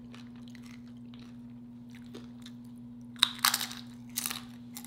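Tortilla chip from a plate of chili cheese nachos bitten and crunched close to the microphone: faint mouth clicks at first, then a sharp crunching bite about three seconds in followed by a few more loud crunches as it is chewed. A faint steady hum sits underneath.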